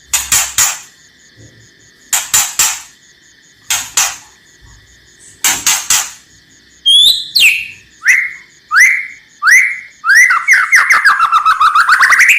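White-rumped shama (murai batu) giving harsh, rasping 'kretekan' calls in short bursts of two or three, about every one and a half to two seconds. Around seven seconds in it switches to clear whistled notes rising in pitch, then a fast run of notes near the end. A faint steady high tone runs underneath.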